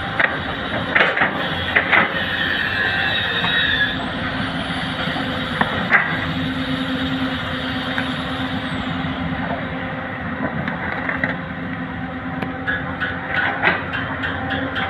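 Heavy diesel machinery of an excavator and dump truck working, engines running steadily with a few sharp knocks in the first seconds and again about six seconds in. A thin high whine comes and goes in the middle.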